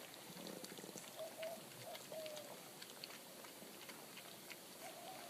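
Faint short squeaks from young puppies, one sliding down in pitch about two seconds in, over soft scattered clicking.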